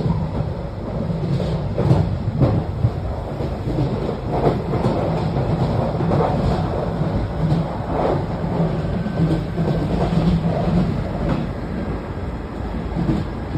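London Underground Jubilee line train (1996 Tube Stock) running, heard from inside the carriage: a steady low rumble and hum, with irregular clicks and knocks from the wheels on the track.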